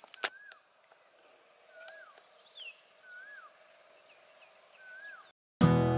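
A bird's short whistled call, rising then falling, repeated about five times over faint outdoor background. A couple of sharp clicks at the start, and strummed acoustic guitar music cuts in near the end.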